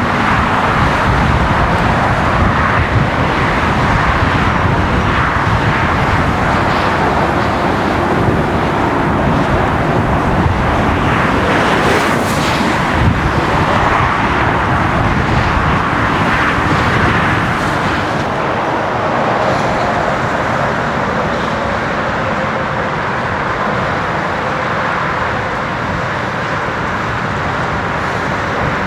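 Jet airliner engines running, a loud steady roar that eases a little after about 18 seconds.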